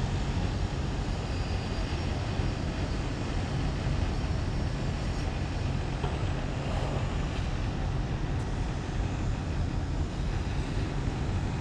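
Steady low rumbling noise with a light hiss over it, unchanging in level throughout.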